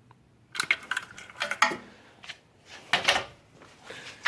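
Irregular clicks and clattering knocks of hard objects being handled, in small clusters, the loudest about three seconds in and at the very end.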